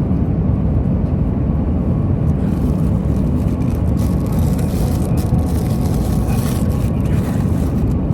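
Steady rumble of a jet airliner heard inside the passenger cabin: engine and airflow noise, with a few light clicks about halfway through.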